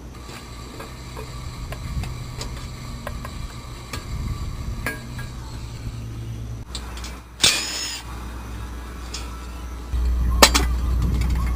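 Hand tools working on the engine's manifold bolts: scattered metallic clicks and knocks, with a short high squeak about two-thirds of the way in. A low steady hum comes in near the end, with a sharp knock just after it.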